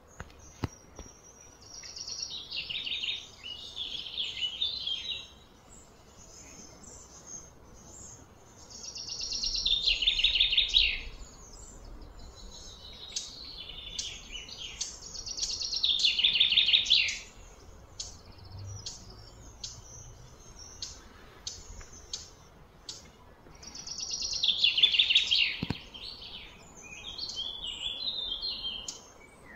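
A songbird singing: loud, rapid chattering phrases of about two seconds, repeated four times, with softer high chirps in between.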